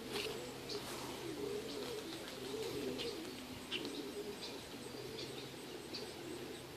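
Birds calling: a low, wavering cooing that runs on without a break, with short high chirps scattered over it.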